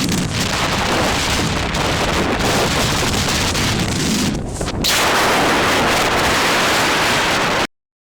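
Strong wind buffeting the microphone, a loud rushing noise that eases briefly about four and a half seconds in, then comes back harder before cutting off abruptly near the end.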